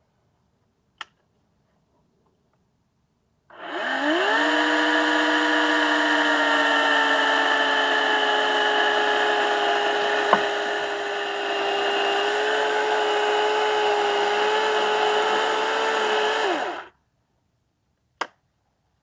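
Electric saw bucking firewood: the motor spins up with a quick rising whine, runs at a steady pitch that sags slightly as it cuts through the wood, then cuts off abruptly. A sharp click comes shortly before it starts and another shortly after it stops.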